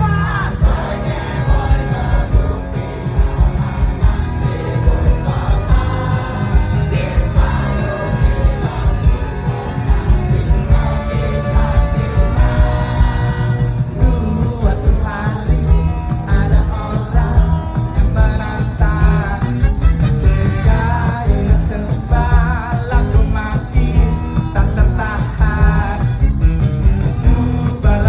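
Live band playing an upbeat rock-and-roll song with a singer over a heavy, pulsing low end.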